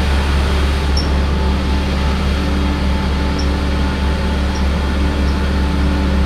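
Large diesel engine of the lifting crane running steadily at a constant speed, a low even drone.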